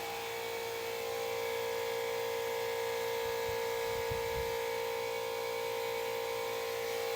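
Electric air compressor running with a steady whining hum.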